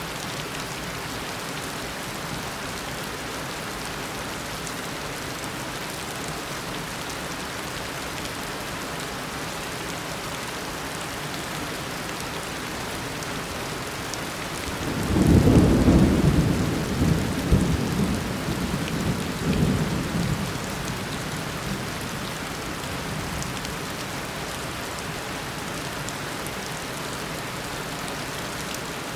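Steady heavy rain falling, with a roll of thunder about halfway through that swells up suddenly, rumbles on in several surges for some five seconds, then fades back under the rain.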